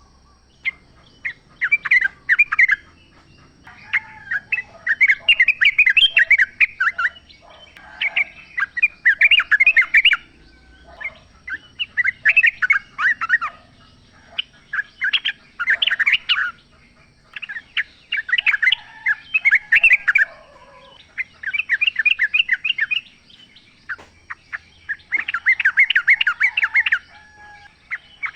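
Yellow-vented bulbuls (trucukan) giving loud bubbling, chattering song phrases of rapid notes, one burst after another with short pauses between.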